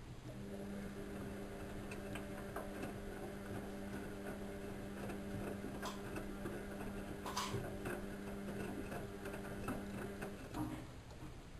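Bauknecht WA1400 Dolphin washing machine running: a steady motor hum with scattered clicks and ticks, the hum starting just after the opening and cutting off about ten seconds later.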